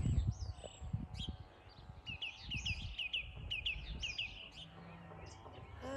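A bird chirping: a quick run of short, high notes, about five a second, starting about two seconds in and lasting a couple of seconds.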